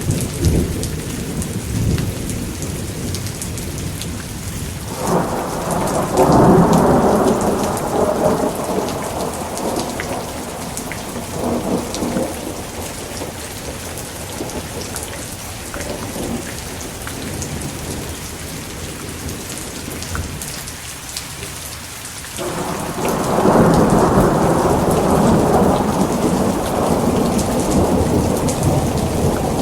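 Thunderstorm: steady heavy rain with the crackle of drops striking a surface, and rolling thunder. One long rumble builds about five seconds in and fades over several seconds, and another breaks in sharply about twenty-two seconds in.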